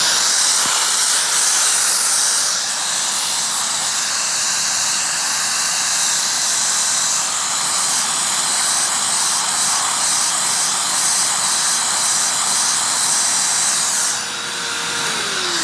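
Hoover Windtunnel upright vacuum with a swapped-in Maytag motor running at full suction, a loud steady rush of air through the hose and pet hair turbo tool over a steady motor hum. The turbo tool does not turn under this suction. Near the end the motor's pitch starts falling as it winds down.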